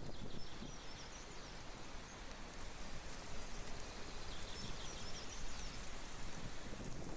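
Outdoor ambience: a steady rustling noise bed with wind rumbling on the microphone, and a small bird chirping twice, briefly, about a second in and again near five seconds.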